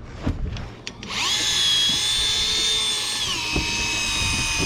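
Electric fishing reel's motor starting about a second in and winding with a steady high whine. Its pitch steps down once a couple of seconds later.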